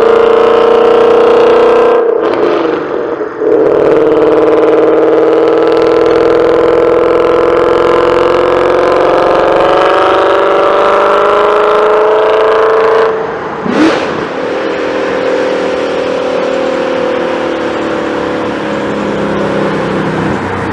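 Ford 5.0-litre Coyote V8 revving hard at high rpm, its pitch slowly climbing during long pulls. The sound breaks off and restarts abruptly about 2 seconds in and again about 13 seconds in.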